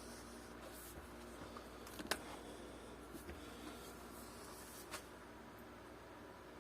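Quiet room tone with a few light clicks and taps from small parts being handled. The sharpest pair comes about two seconds in and a softer one near five seconds.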